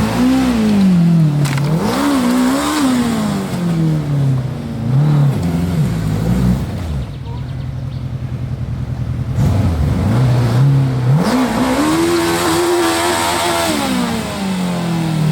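Off-road 4x4 competition vehicle's engine revving in repeated rises and falls, settling to a rough idle in the middle, then climbing into one long high rev that falls away near the end.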